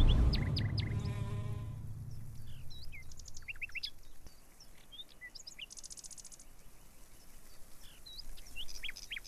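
Small birds chirping outdoors: scattered short calls that rise and fall, with a couple of quick high trills. A low rumble left over from the louder sound before fades out over the first few seconds.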